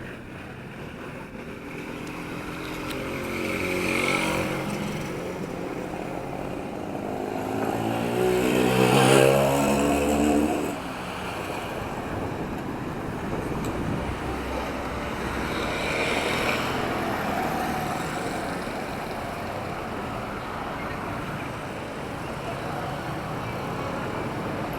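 Town street traffic: motor vehicles passing one after another. The loudest passes about nine seconds in, its engine pitch rising, and falls away suddenly just before eleven seconds. A lighter one goes by around sixteen seconds, over a steady traffic hum.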